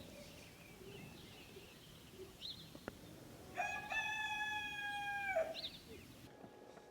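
A rooster crows once, about halfway in, in one long, level call that drops off at the end. Short high bird chirps are heard just before and after it.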